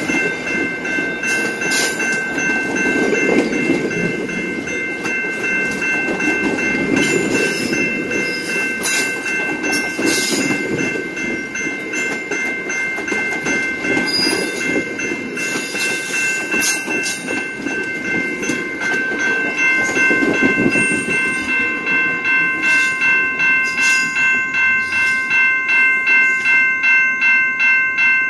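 Bilevel commuter coaches rolling past close by, with wheels rumbling and clicking over the rail joints, while a level-crossing bell rings. Near the end the bell's strikes stand out, about one and a half a second.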